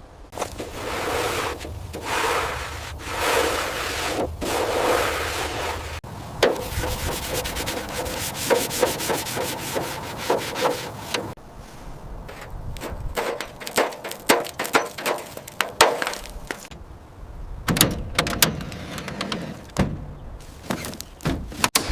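Hand rubbing on a surface in repeated back-and-forth strokes, a little over one a second. This gives way to a faster, denser rasping run, then to scattered sharp clicks and knocks near the end.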